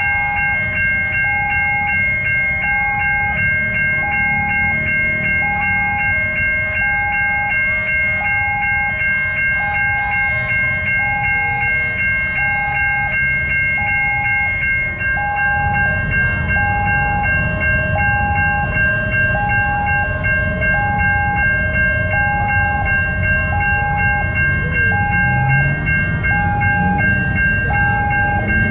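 Railway level-crossing alarm sounding a repeating two-tone chime, about one change a second, over steady high tones. A train rumbles past underneath, louder from about halfway.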